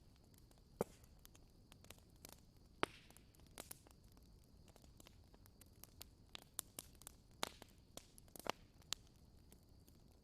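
Campfire crackling: scattered sharp pops and snaps at irregular intervals, a few of them louder, over a faint hiss and a thin steady high whine.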